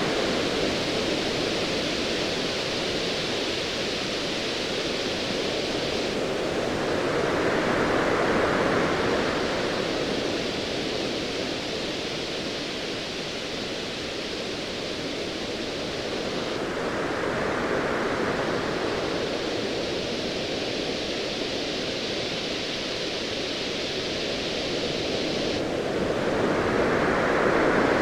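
Ocean waves: a steady rushing noise that swells and falls back in slow surges about every nine seconds.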